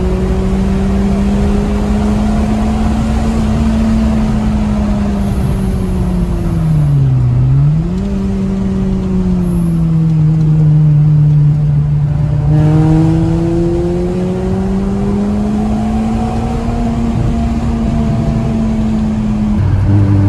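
Peugeot 206 GTI 180's 2.0-litre four-cylinder engine heard from inside the cabin while driving hard, its end silencer removed. The revs rise and fall with the throttle, with a brief sharp dip and recovery about seven seconds in.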